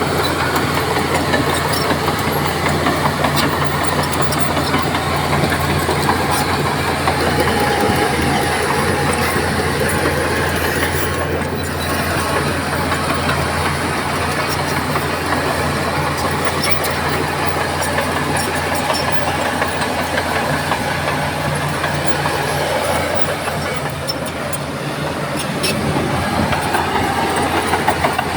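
Heavy diesel engine of earthmoving machinery, a bulldozer or dump truck, running steadily with a constant low drone.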